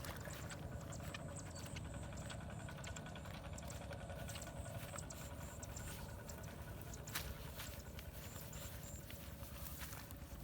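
Steady low rush of draining floodwater, with many scattered small clicks and knocks through it.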